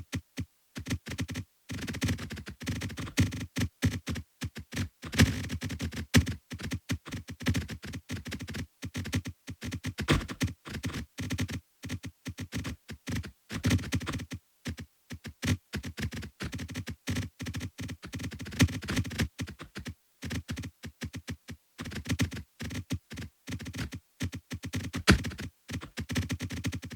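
A dense, irregular stream of short clicks and knocks, several a second with brief gaps, like fast typing.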